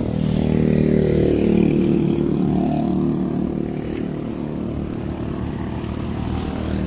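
A motor vehicle's engine running close by, its pitch falling over the first couple of seconds as it goes past, then steady.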